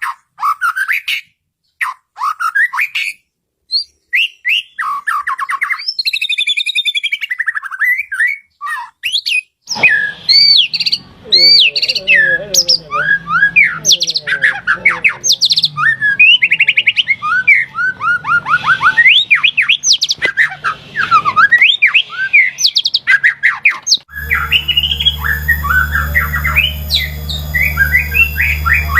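White-rumped shama (murai batu) singing a fast, varied run of whistles, slurred notes and trills. The song is pieced together from different recordings, with the background changing abruptly about ten seconds in and again near the end, where a steady low hum sits under the song.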